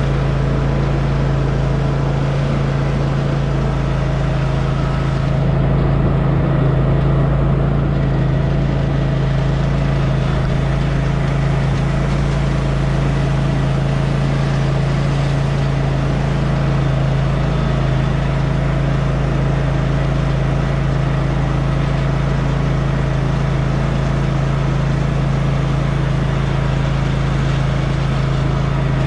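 Cub Cadet Ultima ZT1 zero-turn mower's engine running at a steady, unchanging speed, with a constant low hum, while the mower is test-driven with its deck removed.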